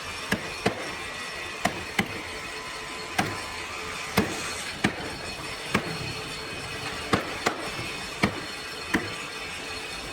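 Hammer or mallet knocking on wood: about a dozen sharp, separate blows at uneven intervals, over a steady background hum.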